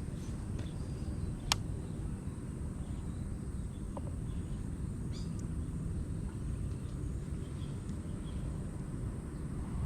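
Outdoor ambience: a steady low rumble with one sharp click about a second and a half in and a faint high chirp around five seconds in.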